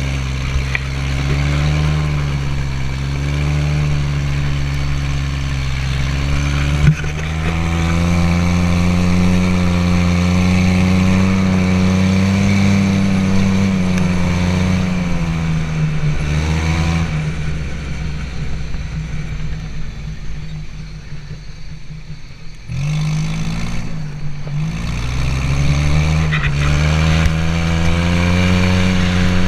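Car engine running hard as the off-road car drives fast on a gravel road, its pitch rising and falling with the throttle. It eases off about two-thirds of the way through, then comes back on suddenly and builds again; there is one sharp knock about a quarter of the way in.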